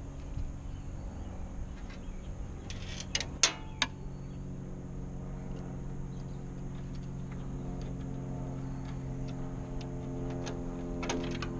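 A steady low machine hum, like an engine running, with a few sharp clicks about three and a half seconds in and again near the end.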